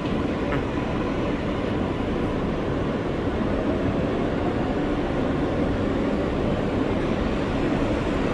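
R143 subway train running between stations, heard from inside the car: a steady rumble of wheels on rail with a faint hum from the drive.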